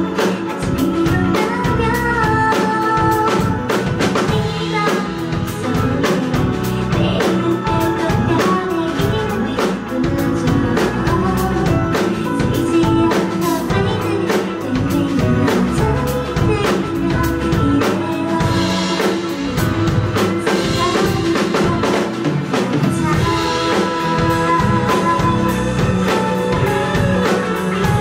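Live band playing a song: a drum kit keeps a steady beat under guitar and bass, with a singer's voice.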